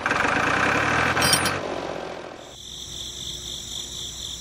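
A small machine running with a dense rattling noise and a metallic clink about a second in, fading out about two seconds in; then a steady, high, pulsing chirr like insects.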